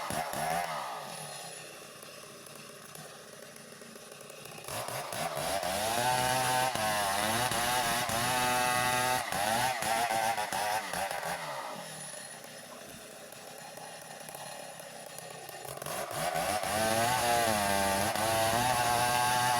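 Chainsaw running and cutting wood into planks, its engine pitch wavering under load. Twice it drops to a quieter, lower running for a few seconds before revving back up.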